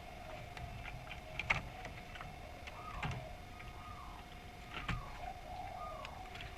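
A lull in a spotted dove recording: a faint steady hum, with a few soft, short falling bird notes and three sharp clicks about a second and a half apart.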